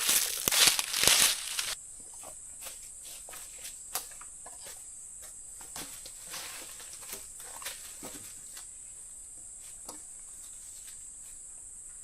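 Steady high-pitched drone of forest insects. Over it, loud rustling and crinkling for the first couple of seconds, then scattered light clicks and rustles.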